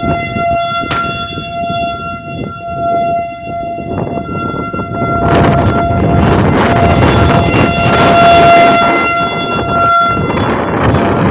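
Outdoor tornado warning siren sounding one steady, held tone. Wind noise on the microphone gusts over it and grows much louder about halfway through.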